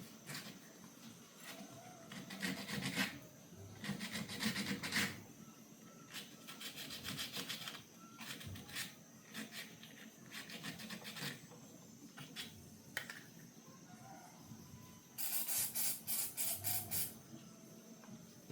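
Rapid hand scraping or rubbing strokes in five short runs of one to two seconds each, with pauses between. A faint steady high-pitched tone runs underneath.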